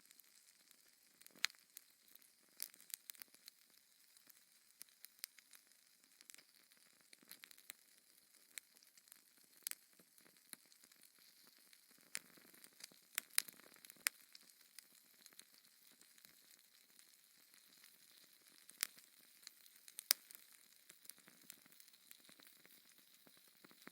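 Wood fire crackling in a fireplace: irregular sharp pops and snaps over a faint hiss.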